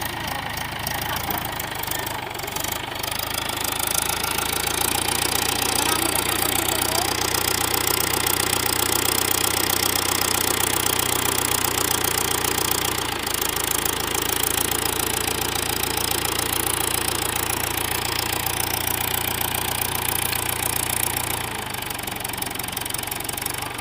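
Mahindra 415 DI tractor's four-cylinder diesel engine running steadily, growing louder about four seconds in and easing back near the end.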